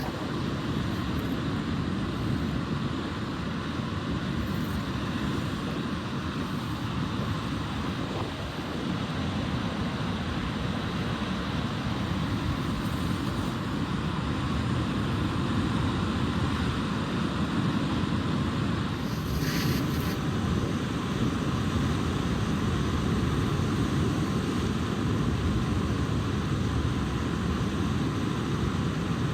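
Steady rushing of wind buffeting the microphone, strongest in the low end, with a brief higher hiss about two-thirds of the way through.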